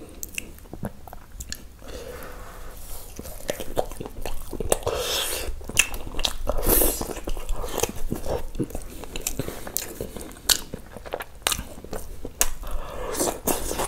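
Close-miked chewing of tandoori chicken: bites and wet mouth sounds with many short clicks. Near the end he bites into chicken with raw onion slices.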